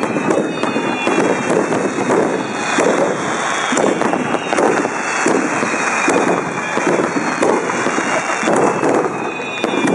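Ground fireworks hissing and crackling continuously, with a dense stream of sharp small pops and a few faint whistles.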